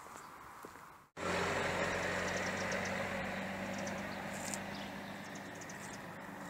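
Sound cuts out briefly about a second in, then a motor vehicle's engine runs steadily with an even hum, slowly getting quieter. Faint bird chirps sound above it.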